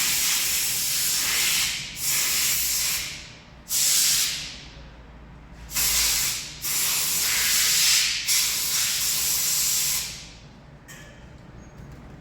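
About six bursts of pressurised spray hissing, each a second or two long with short gaps between them, stopping about ten seconds in.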